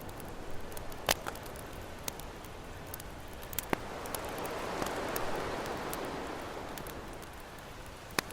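Campfire crackling, with many small ticks and a few sharp pops, over an ocean wave that washes in, swelling around the middle and then fading.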